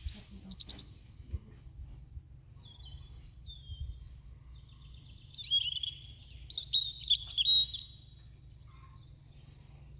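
A small bird singing: a quick trilled phrase at the start, a few faint calls, then a longer, varied phrase of rapid notes about halfway through, over a low steady rumble.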